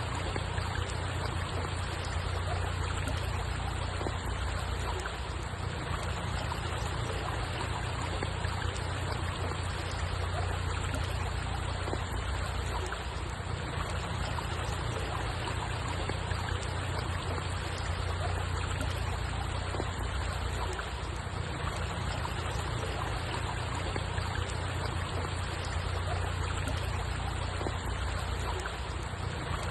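Steady running water, a stream-like trickle over a constant low rumble, unchanging throughout.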